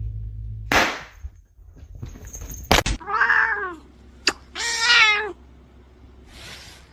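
A cat meowing twice, about three seconds in and again about a second later; the second meow is longer and wavers in pitch. A short rustling burst and a sharp knock come before the meows.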